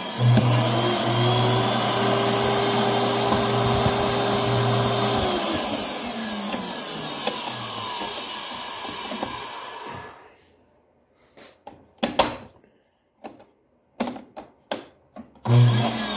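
Vacuum cleaner motor test-run after repair: switched on, rising to speed and running steadily for about five seconds, then switched off and winding down. A few sharp clicks and knocks follow in the quiet, and the motor starts again just before the end.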